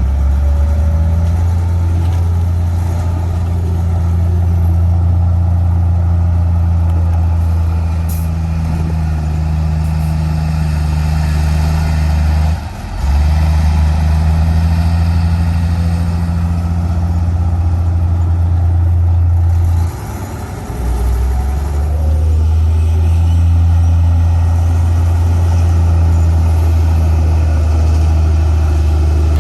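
Heavy diesel engine of earthmoving machinery running steadily, with a deep, even drone. The sound drops out briefly twice, about a third and two thirds of the way through.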